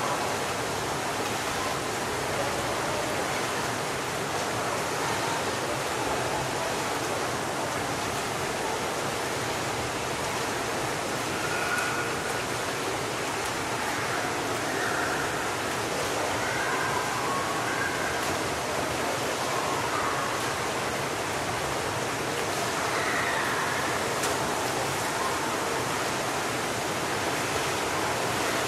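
Public swimming pool ambience: a steady wash of splashing water and crowd noise. Children's voices rise faintly out of it now and then.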